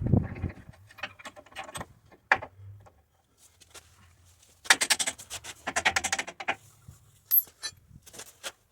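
Scattered clicks, knocks and light metallic rattling from handling tools and parts during repair work, with two longer stretches of scraping and rattling about five and six seconds in.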